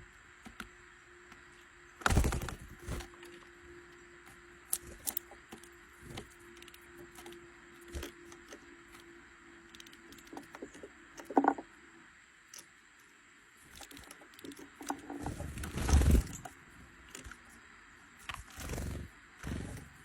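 Irregular knocks, clicks and scrapes, loudest about two seconds in and again about sixteen seconds in, over a faint steady hum that stops about twelve seconds in.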